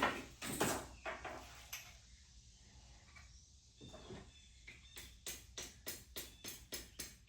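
A few knocks of metal tools and parts in the first two seconds, then from about five seconds in a hand ratchet clicking steadily, about four to five clicks a second, as a bolt is worked.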